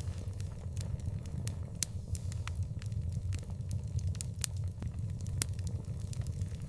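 Wood fire crackling, with irregular sharp pops and snaps over a steady low rumble of the burning.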